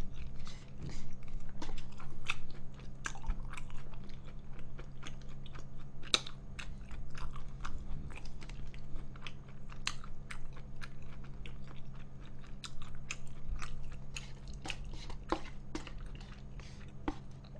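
Close-miked chewing of instant jjajang noodles with chunky toppings, with many short wet mouth clicks at an irregular pace. A steady low hum sits underneath.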